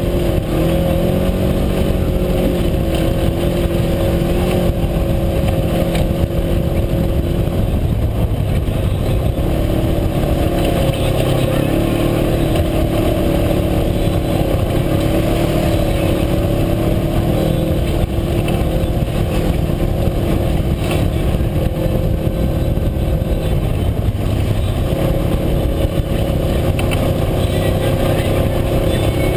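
UTV engine running steadily while under way, its pitch shifting a little now and then over a constant low rumble.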